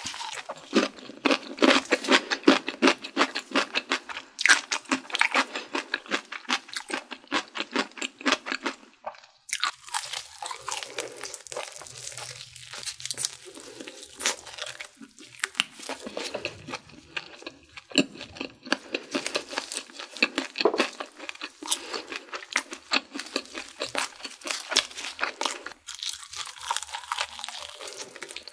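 Close-up crunching and chewing of crispy fried chicken: a long run of rapid crackling bites, a short pause about nine seconds in, then more crunching in bouts.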